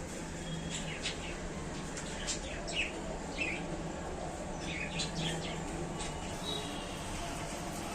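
Budgerigars chirping in short, scattered calls, a few each second at times, over a steady low hum.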